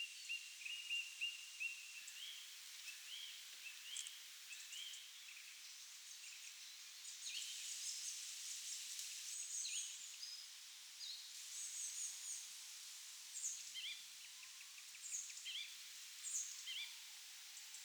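Songbirds chirping and calling, many short high notes and brief trills scattered throughout over a faint steady background hiss.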